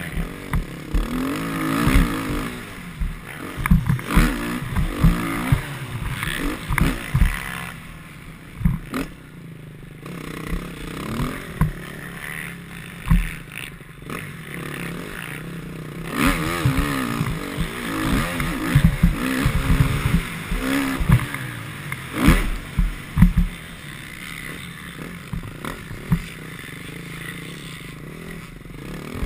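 Motocross bike engine revving up and falling back again and again as it is ridden round the track, with many sharp knocks and thumps along the way.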